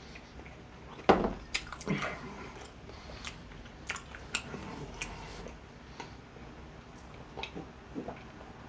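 A person eating crispy fried chicken close to the microphone: chewing with scattered crunches and mouth clicks. The loudest is a bite about a second in.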